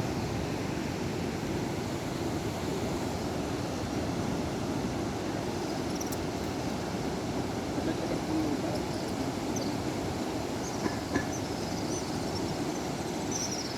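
Steady rushing noise of the swollen Damodar river in flood, its water running high and fast.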